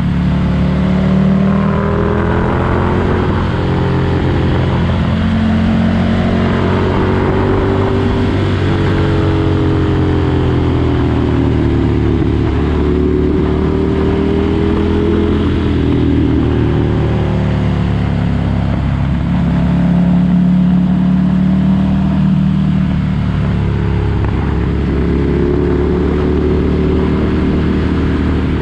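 2019 Ducati Desert Sled's 803 cc air-cooled L-twin running through a Competition Werkes aftermarket exhaust, loud and steady, its engine note slowly rising and falling.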